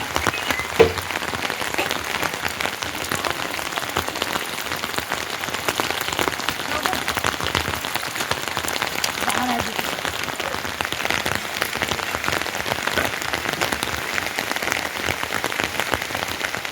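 Heavy rain falling steadily, a dense patter of drops striking surfaces, with a single sharp knock about a second in.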